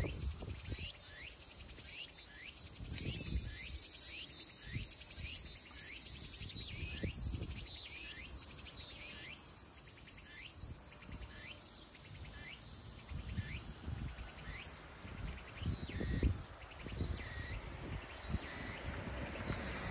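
Outdoor ambience: a bird repeating a short rising chirp about once or twice a second, over a steady high hiss of insects, with scattered low rumbles.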